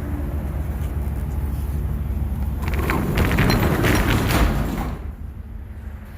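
Roll-up rear door of a box truck rattling as it is raised, from about three seconds in, over a steady low rumble.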